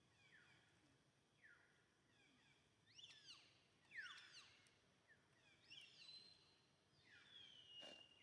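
Faint bird calls: a series of short chirps sliding downward in pitch, several overlapping and a little louder in the middle, then a longer falling whistle and two sharp clicks near the end.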